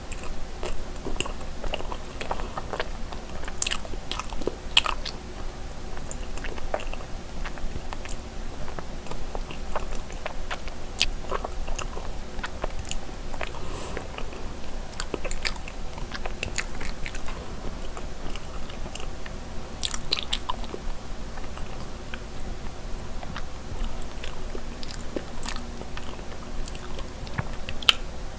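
Close-miked chewing of soft cream-cheese mochi (glutinous rice cake), with many small, irregular mouth clicks over a steady low hum, and a fresh bite into another piece near the end.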